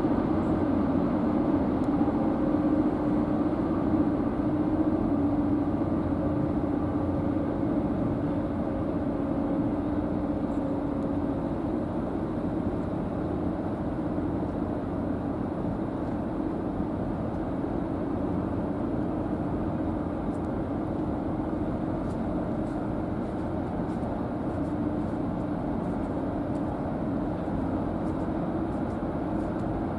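High-speed car ferry's engines and propulsion running as a steady low drone with a hum in it, slowly fading as the ship pulls away.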